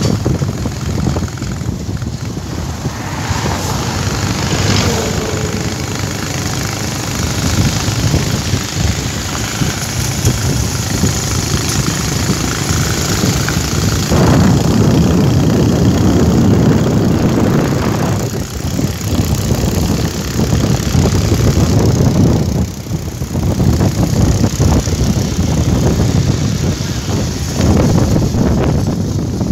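Motorcycle running during a ride, a loud, continuous rushing rumble that swells and dips.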